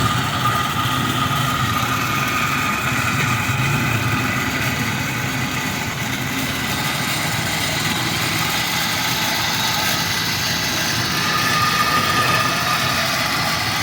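A motor running steadily with a high, even whine over a low hum.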